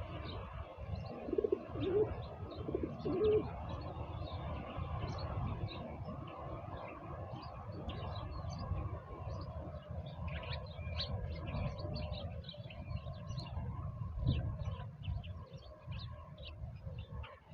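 Birds outdoors: a dove cooing a few low notes in the first few seconds, and small birds chirping throughout, busier in the second half, over a steady low rumble.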